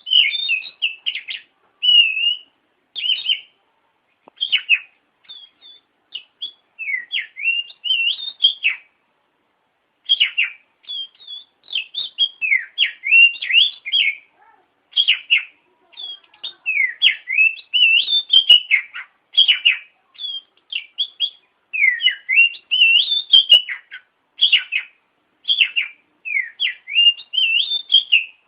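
Oriental magpie-robin (kacer) singing a varied song of quick, sweeping whistles and chirps in short phrases, with one pause of about a second a third of the way through.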